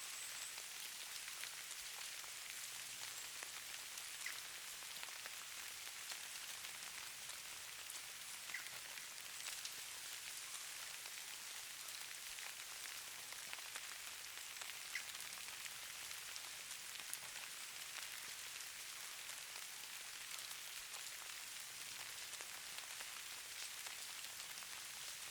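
Steady, faint patter of light precipitation falling on a surface: a fine, even hiss with scattered small ticks.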